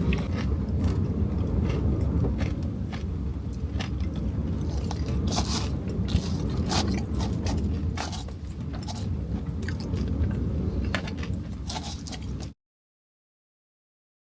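Strong wind buffeting a camper van as a steady low rumble, with many irregular crunchy clicks and crackles over it. The sound cuts off abruptly to silence near the end.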